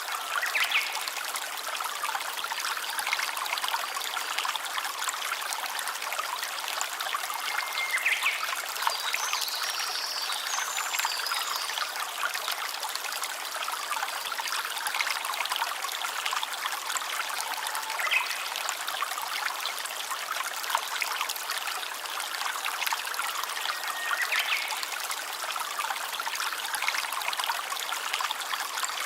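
A stream trickling and splashing steadily over stones, with a few brief high tones now and then.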